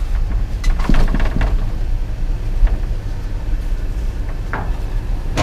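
Items being shifted and knocked about inside a dumpster: a cluster of clatters and knocks about a second in, and a few more near the end, over a steady low rumble.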